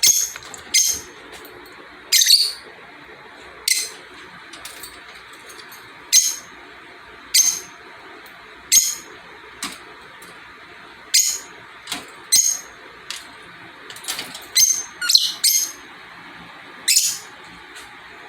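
Pet lovebirds calling: short, shrill chirps about once a second, with a quick flurry of several close together about three-quarters of the way through.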